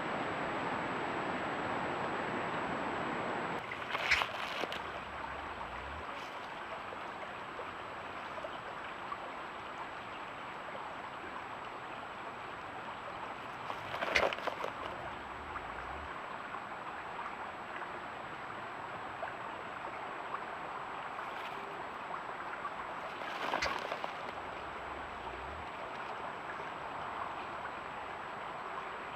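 Steady rush of running water, a little louder at first, with three brief sharp knocks roughly ten seconds apart.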